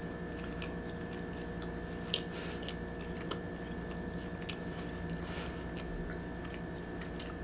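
A person chewing a mouthful of vegan sausage-and-cheddar cake topped with blueberry jam, with scattered faint wet mouth clicks. A steady low hum runs underneath.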